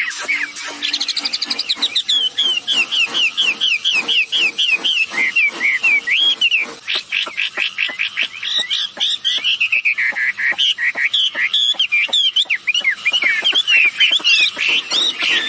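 Wambi birds singing: a fast, unbroken chatter of short, sharp chirping and whistled notes, several a second, some sweeping up and down in pitch.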